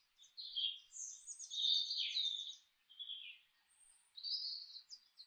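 Songbirds singing: quick high chirps and rapid trills in short phrases, separated by brief pauses.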